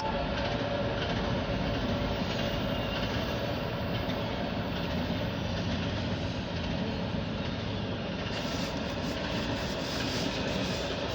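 CSX intermodal double-stack freight train passing, its wheels rolling steadily on the rails.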